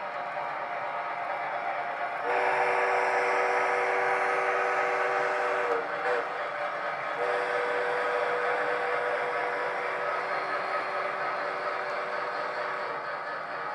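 Digital sound system of an MTH O-scale Triplex model steam locomotive blowing a steam whistle in two long blasts, the first starting about two seconds in and lasting about three and a half seconds, the second starting about seven seconds in and lasting about six seconds, over the steady running noise of the model trains on the track.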